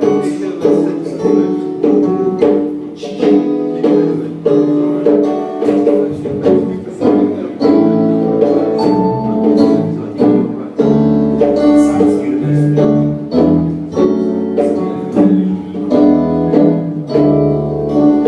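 Live band playing an instrumental introduction: a guitar strumming chords in a steady rhythm, with low bass notes coming in about halfway through.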